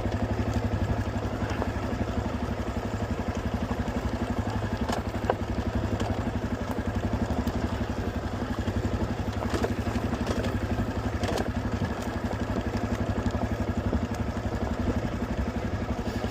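Honda CRF250 dirt bike's single-cylinder four-stroke engine running steadily at low revs, its pitch holding even while rolling downhill, with a few sharp clicks and clatter from the bike over rough ground.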